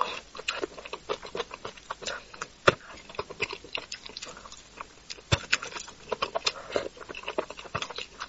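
Close-miked wet chewing and lip-smacking of a person eating spicy braised carp, a quick run of soft clicks and smacks. Two sharper clicks stand out, about two and a half seconds apart.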